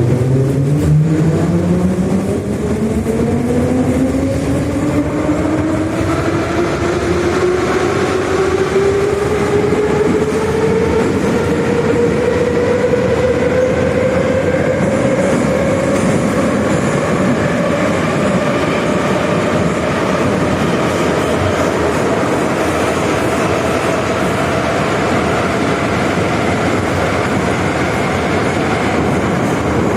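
Moscow Metro 81-717/714 'Nomernoy' electric train picking up speed. The traction motors' whine rises steadily in pitch for about fifteen seconds, then levels off as the train runs at speed, over the steady rumble of the wheels on the rails.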